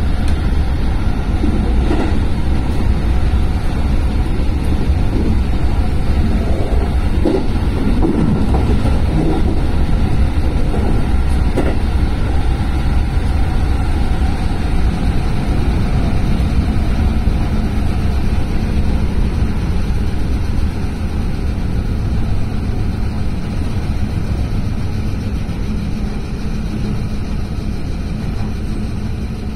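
Cabin noise inside a moving electric commuter train: a steady low rumble of wheels on rail with a few clicks, getting gradually quieter over the last third as the train slows.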